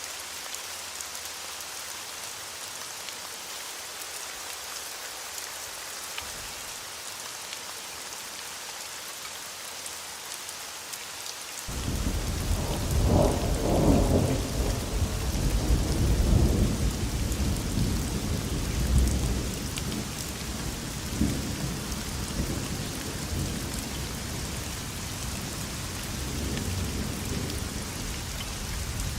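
Steady rain falling throughout. About twelve seconds in, thunder starts suddenly with a deep rolling rumble that swells in several peaks and then slowly dies away under the rain.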